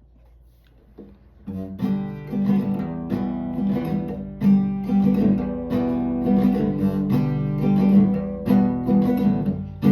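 Acoustic guitar strumming chords, starting about a second and a half in after a faint opening pluck.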